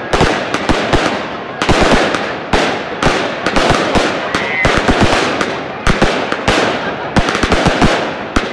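Fireworks going off in quick, irregular succession: many sharp bangs, several a second, over a continuous crackle.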